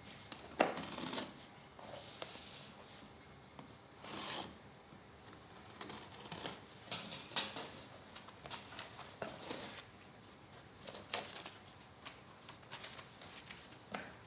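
Scattered rustling, scraping and small clicks of a phone's packaging being handled.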